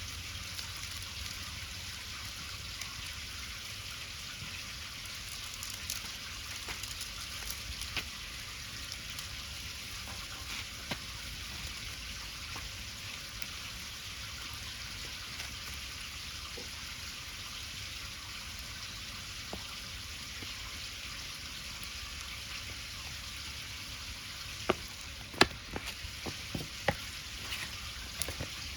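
Pancake batter frying in a pan over a wood fire: a steady sizzling hiss with scattered small crackles, and a few sharp pops near the end.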